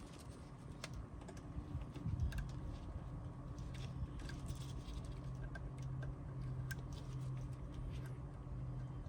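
Scattered light clicks and taps of small wiring connectors being handled and pushed into place on a heat pump pool heater's control wiring, over a steady low hum.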